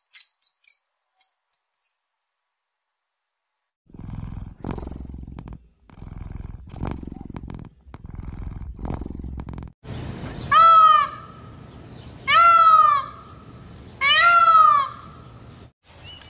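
Big cat calling: four low, rough growls, then three loud, high-pitched calls, each arching up and falling in pitch. A few short high squeaks from rats come right at the start, then a pause before the growls.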